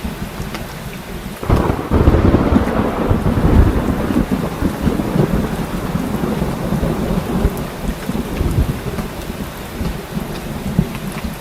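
Heavy rain falling steadily, with a roll of thunder breaking in about a second and a half in, loudest over the next couple of seconds and then slowly dying away under the rain.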